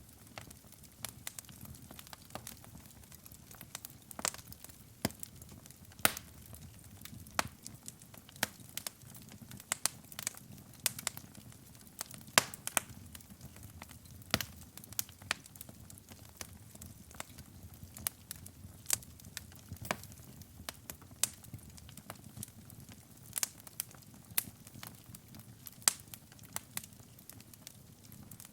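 Wood fire burning in a fireplace: a soft low rumble of flames with frequent sharp, irregular crackles and pops, a few of them much louder than the rest.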